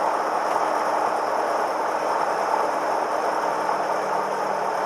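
Cessna 172M's Lycoming O-320 four-cylinder engine running, a steady drone that does not change.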